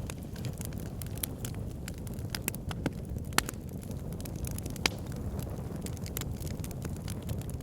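Backyard fire pit burning: a steady low rush of flames with frequent sharp crackles and a couple of louder pops, about three and a half seconds in and again near five seconds.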